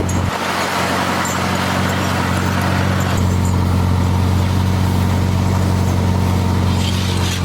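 Farmall M tractor's four-cylinder engine running steadily with a low, even drone that grows fuller and stronger about three seconds in.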